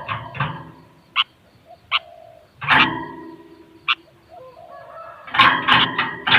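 Sooty-headed bulbul (kutilang) calling. A few short, sharp chirps come spaced out, with a longer call about three seconds in, then a quick run of loud chirps starts about five seconds in.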